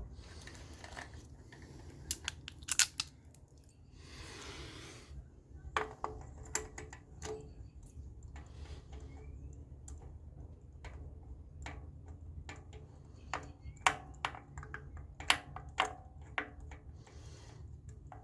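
Scattered light metallic clicks, clinks and taps of hand tools and parts being handled in spark plug and coil work, with a brief rustle about four seconds in.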